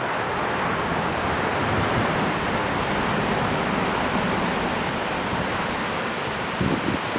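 Ocean surf of a large typhoon swell breaking and washing in, a steady rushing noise. A couple of brief low thumps sound near the end.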